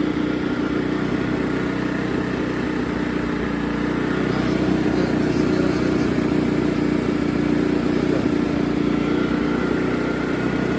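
AIVolt AS8000411 inverter generator's engine running at a steady speed, a constant-pitched hum with no change in level.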